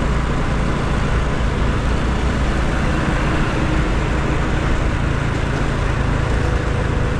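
Steady road noise from a motorcycle riding in city traffic: a constant rush of wind and engine with surrounding traffic, no distinct events.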